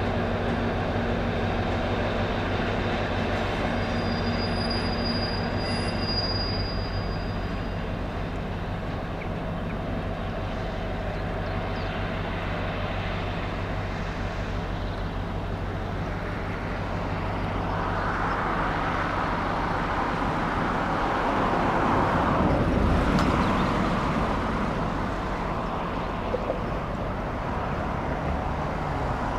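Diesel train running past: a steady engine hum that fades after about fifteen seconds, then wheel-and-rail rumble that swells to its loudest a little past twenty seconds in and eases off.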